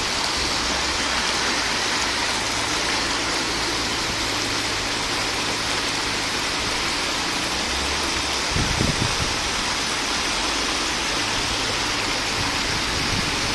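Heavy rain falling and floodwater running across a street, a steady rushing hiss. A brief low rumble about nine seconds in.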